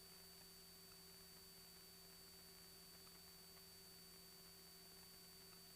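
Near silence: a faint steady hum with a few constant thin tones, unchanging throughout.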